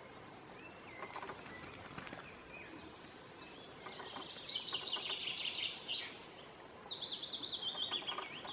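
A songbird singing a long song of rapid trills that step down in pitch, starting about three and a half seconds in and running almost to the end. A fainter whistled call comes earlier, over faint rustles and clicks.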